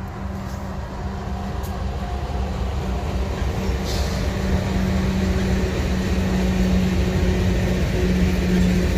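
Slow freight train passing close by: Union Pacific GE C44ACM diesel locomotives rumbling past, then covered hopper cars rolling by, with a steady hum over the rumble of engines and wheels that slowly grows louder.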